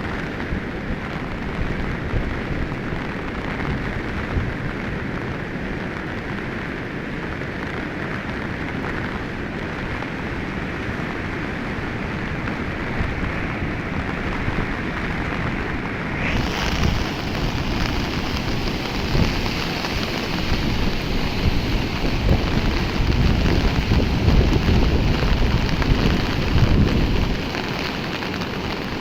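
The Swat River in flood, its floodwater rushing as a steady, loud noise of churning water. The sound turns brighter a little past halfway and grows louder and deeper for a few seconds near the end.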